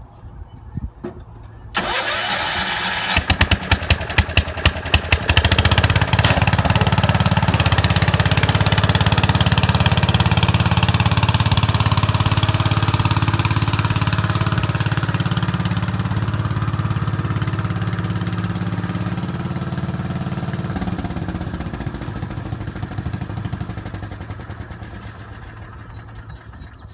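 An engine starting: it catches about two seconds in, fires unevenly for a few seconds, then runs steadily before dying away near the end.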